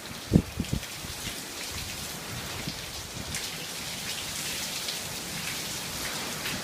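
Steady rain falling and pattering on surfaces, with a few short low thuds in the first second.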